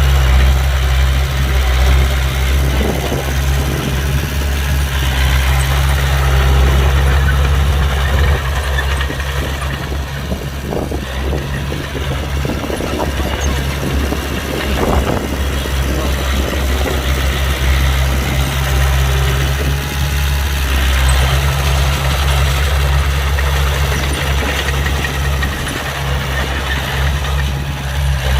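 Heavy diesel engine of earthmoving equipment running steadily with a deep low hum, with some scattered clatter around the middle.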